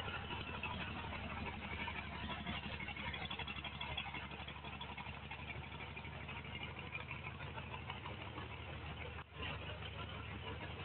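The tank-derived V12 engine of the Blastolene Special hot rod idling steadily, with a brief break about nine seconds in.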